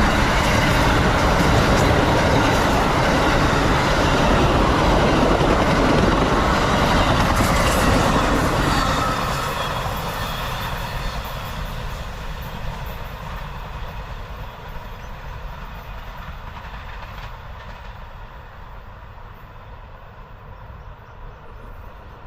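Amtrak Silver Meteor passenger train passing, loud for about the first eight seconds, then fading steadily as it moves away.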